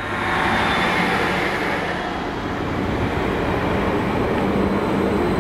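Class 231 Stadler FLIRT diesel multiple unit running past along the platform: a steady rumble of engine and wheels with a faint high whine.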